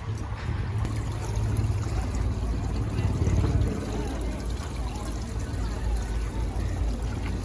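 Hot spring water trickling and pouring steadily, over a constant low rumble.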